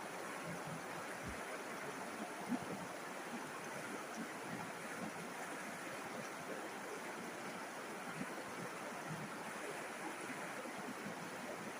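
River water flowing, a steady even rush with small gurgles through it, one a little louder about two and a half seconds in.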